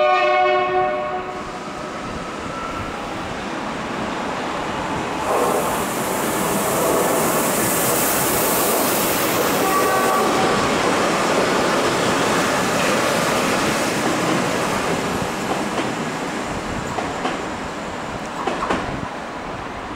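EN63A electric multiple unit rolling along the track past the platform, a steady rumble of wheels and running gear that swells about five seconds in and slowly fades. It opens with a brief ringing tone, the loudest moment, that dies away within the first second or so.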